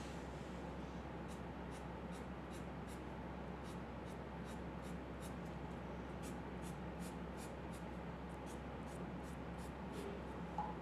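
Quick, repeated strokes of a drawing tool on paper, about two or three a second, over a steady low hum.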